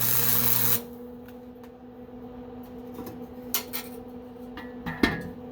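Welding arc hissing and crackling over a steady electrical hum, cutting off suddenly under a second in. After that the hum carries on, with a few light metal clicks and knocks, the loudest about five seconds in.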